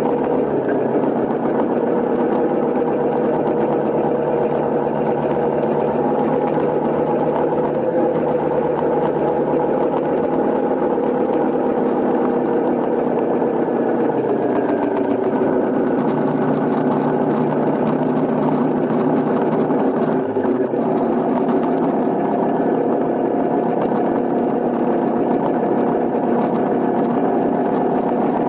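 Honda CRF250L's single-cylinder four-stroke engine running steadily, its pitch shifting slightly about halfway through and dipping briefly about 20 seconds in.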